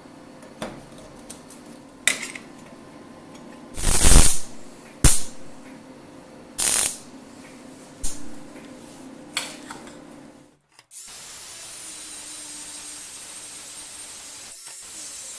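Workshop work noises: a run of short knocks and brief bursts from tools, the loudest about 4 s in, over a low steady hum. About two-thirds of the way through, these cut off and give way to a steady hiss.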